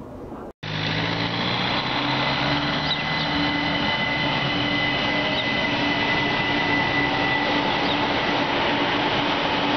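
Red-and-white electric multiple unit train passing close by: a steady rumble of wheels on rails with several steady whining tones from its electric drive.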